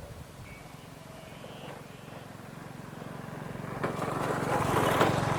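A small motor vehicle's engine approaching and passing close by, getting steadily louder until it is loudest about five seconds in, then starting to fade.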